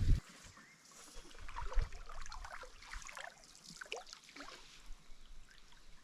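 Water trickling and lapping, with many small irregular splashes and drips.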